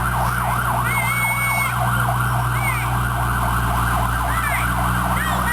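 Fire truck siren in a fast yelp, rising and falling several times a second, over the truck's steady engine rumble. A brief higher steady tone sounds about a second in.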